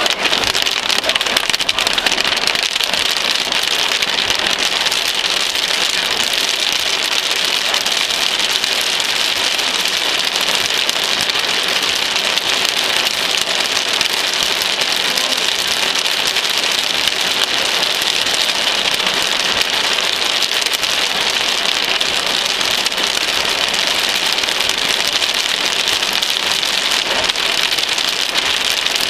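Heavy rain pouring down steadily, an even hiss of rain with no break and no distinct thunder claps.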